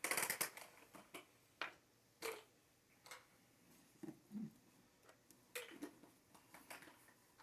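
Scattered faint clicks and taps at irregular times, with a soft murmur or two.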